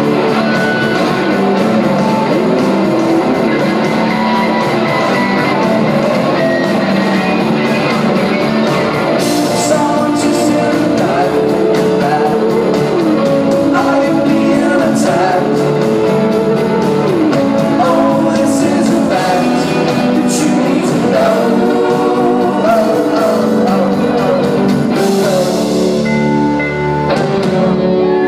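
Live rock band playing a song with a singing voice and guitars, heard in a concert recording.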